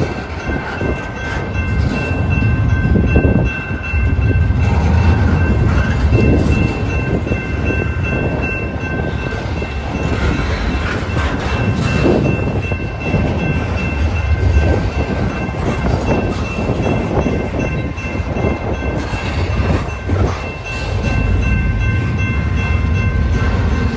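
CSX intermodal train's double-stack well cars rolling steadily past, a continuous low rumble with irregular clatter and knocks from the wheels over the rails. Wind buffets the microphone.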